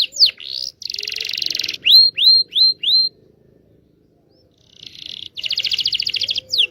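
Local Indonesian canary singing. Quick downward-sweeping whistled notes give way to a fast buzzing trill and then four short rising notes. After a pause of over a second, a second long trill follows, with falling notes again near the end.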